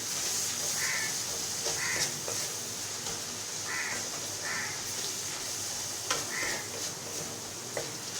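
Spice paste frying in oil in a pan with a steady sizzle and a few sharp clicks of the spatula on the pan, while a crow caws about five times in short, separate calls.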